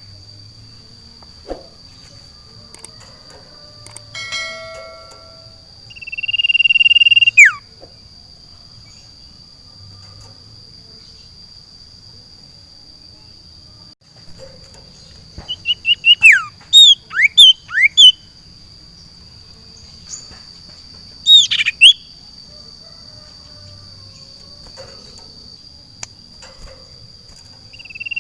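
A caged sirtu (cipoh, an iora) singing: a long steady whistle that snaps down in a falling slur about seven seconds in, then near the middle a quick run of about eight sharp falling whistled notes, and two more a few seconds later. A steady high insect drone runs underneath.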